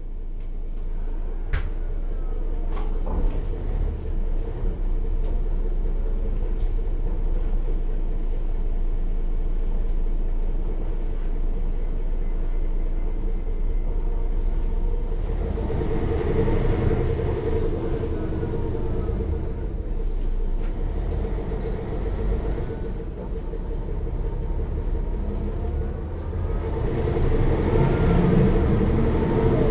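Mercedes-Benz O 405 N1 low-floor city bus heard from inside while driving: its loud six-cylinder diesel engine pulls up twice in rising pitch, over a steady whine from the rear-axle gearing, with the quiet automatic transmission barely heard.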